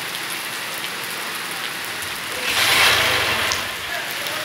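Heavy rain falling steadily on a flooded street. About halfway through, a louder rushing swell rises and fades over a second and a half.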